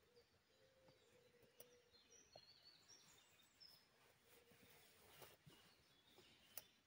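Near silence in a forest: faint bird chirps come and go in the middle, with a few faint sharp clicks, the loudest near the end.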